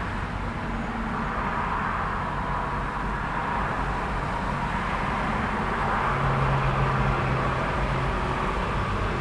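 Steady road traffic noise: a continuous wash of tyre and engine sound from passing vehicles. It swells a little about two-thirds of the way through, as one vehicle's low engine hum comes to the fore.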